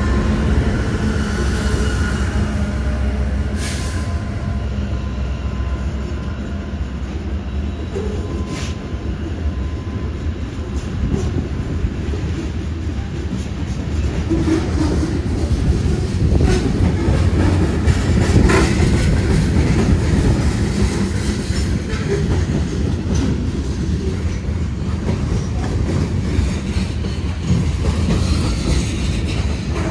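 BNSF freight train passing close by: the diesel locomotives' engine hum in the first few seconds, then loaded covered hopper cars of a grain train rolling past with a steady rumble and the clack of wheels over the rails.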